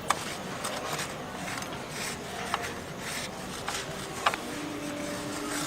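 Old cloth rubbing along a kerosene-wet motorcycle drive chain to wipe it dry, with a few light clicks.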